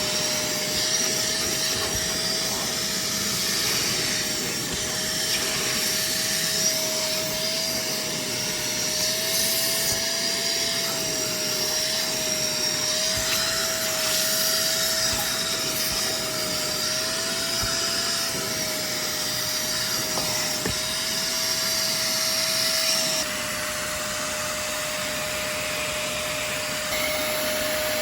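Shark StainStriker portable spot cleaner running its suction motor: a steady whine over a hiss. The whine wavers slightly in pitch as the nozzle works over surfaces, then settles a little quieter and steadier about 23 seconds in.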